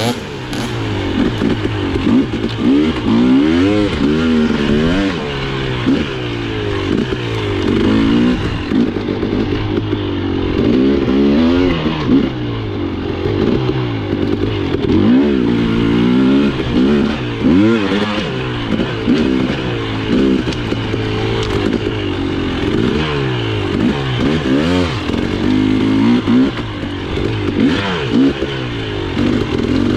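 Husqvarna TE 300i single-cylinder two-stroke TPI engine being ridden on trail, its pitch rising and falling every second or so as the throttle is opened and closed.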